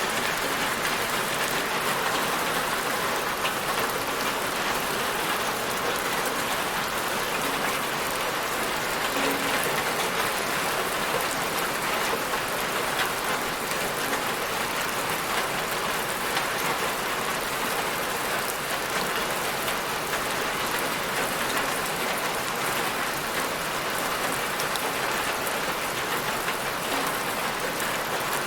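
Steady rain falling, a constant hiss of drops on a surface with fine patter throughout.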